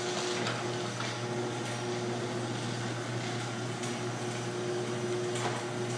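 Electric garage door opener running as it lowers an insulated steel garage door: a steady motor hum with a few light clicks.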